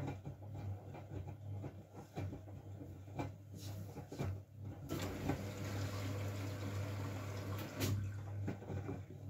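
Miele W433S front-loading washing machine in its wash phase: a steady motor hum with soft knocks from the tumbling load and water sloshing in the drum, heaviest from about five to eight seconds in.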